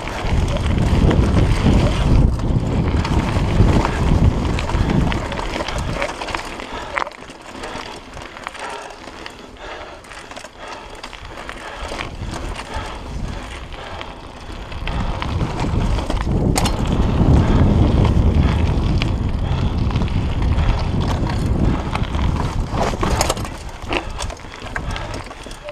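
Mountain bike riding fast down a dirt trail: tyre rumble and scattered clicks and knocks, with wind on the camera microphone. It is loudest for the first several seconds and again in the second half, easing off through a quieter stretch in the middle.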